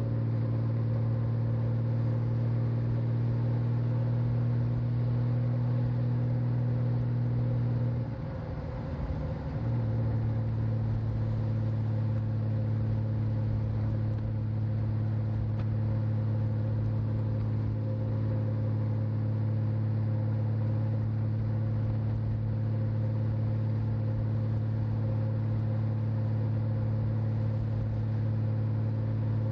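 Honda Valkyrie's 1520 cc flat-six engine running steadily under way, heard from on the rider's back. About eight seconds in the note briefly drops away and wavers, then settles back slightly lower in pitch.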